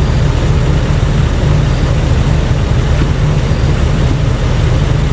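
Steady, loud rumble of vehicle traffic on the interstate, with most of its weight in the low end.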